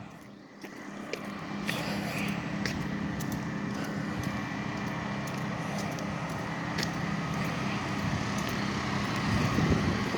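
A vehicle engine running steadily, a low hum with a faint high tone over it, with scattered light clicks and knocks. It swells a little near the end.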